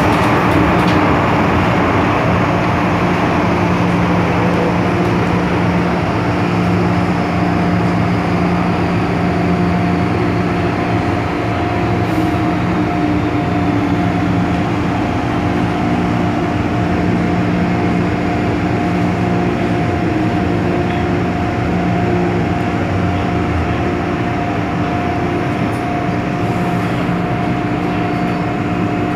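MTR Tsuen Wan Line M-Train, a Metro-Cammell electric multiple unit, running along the line: a steady rumble of wheels on rail with a constant hum from the traction equipment. A faint high whine slowly falls in pitch through the first half.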